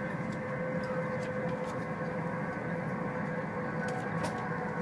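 Steady running noise inside the passenger cabin of a high-speed electric train at speed, a constant rumble with a steady hum over it and a few faint ticks.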